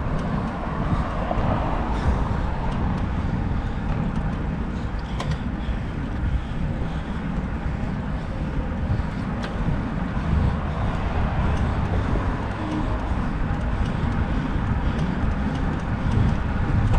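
Steady wind and road noise from a road bike ride, with the rush heaviest in the low end and a few faint clicks.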